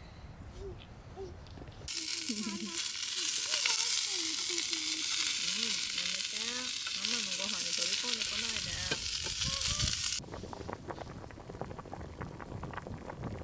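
Food sizzling in a hot pan: a steady frying hiss that starts and stops abruptly and lasts about eight seconds, with faint voices beneath it. Light clicks and knocks follow.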